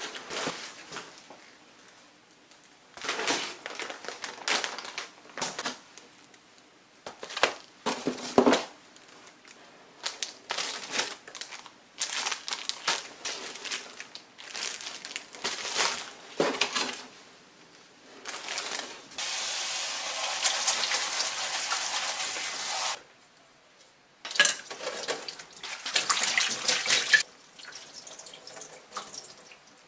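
Groceries and produce being handled in a kitchen: a string of short rustles and knocks. A tap runs steadily for about four seconds past the middle.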